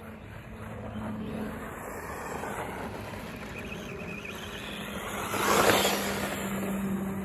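Electric RC stadium truck with a brushless motor running on loose dirt: motor whir and tyre noise, loudest about five and a half seconds in.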